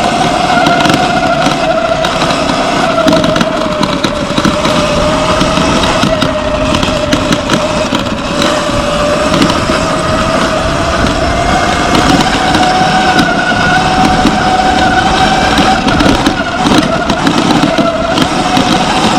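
Surron X Light Bee electric dirt bike under way, its electric motor giving a steady whine with a fainter higher tone above it. The pitch sinks slowly and then climbs again as the speed changes, over a heavy rush of wind and ground noise with scattered knocks.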